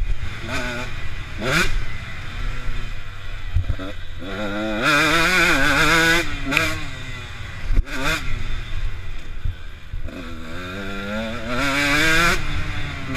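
Motocross dirt bike engines revving, the pitch climbing and dropping in several pulls, with two long drawn-out pulls near the middle and near the end and shorter blips in between.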